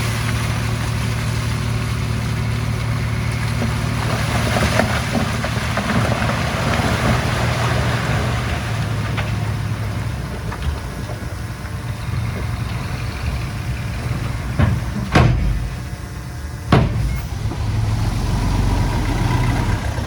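Heavy diesel machinery engine running steadily, with two sharp clanks about fifteen and seventeen seconds in.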